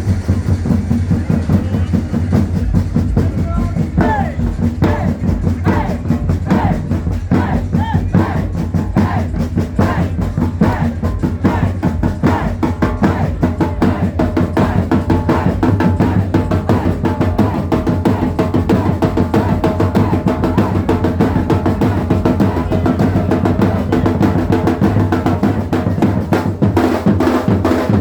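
Loud live music driven by dense, fast drumming over a steady deep bass, with gliding pitched sounds like a voice between about four and twelve seconds in.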